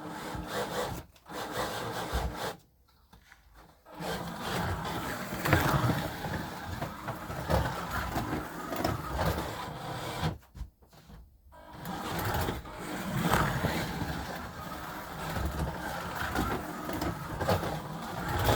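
Scalextric Honda slot car running on a plastic track, its small electric motor whirring and the car rattling along the track. It stops twice briefly, about three seconds in and again about eleven seconds in.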